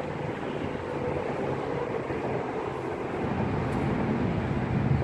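Steady engine noise from passing motor traffic, a low hum that grows louder over the last couple of seconds.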